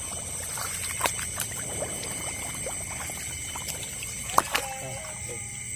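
Shallow paddy water splashing and trickling around wading legs, with small scattered splashes and one sharper click about four seconds in, over a steady high chorus of night insects.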